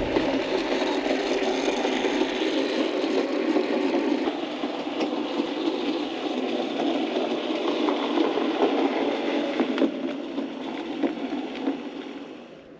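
OO gauge model locomotive running along the layout track, a steady whirring rattle of its motor and wheels on the rails that fades away near the end.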